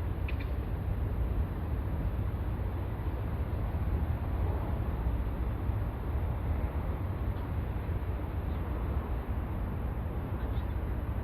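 Steady low rumble with a hiss over it: harbour ambience by the sea. A few faint high chirps come near the start and again near the end.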